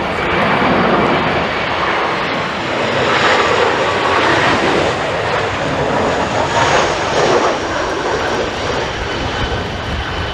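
Jet airliner's engines, a loud rushing noise that swells a few times and eases off near the end.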